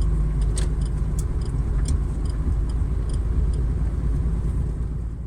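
Steady low drone of a truck's diesel engine and road noise heard inside the cab while driving, with a few faint clicks in the first few seconds.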